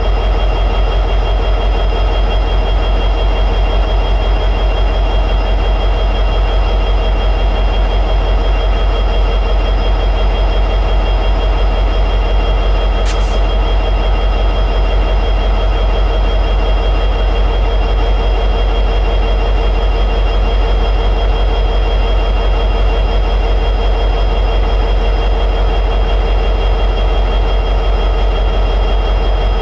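EMD 710G3B two-stroke diesel prime mover of an SD60E locomotive running steadily at high idle: a constant low drone with steady high-pitched tones riding above it.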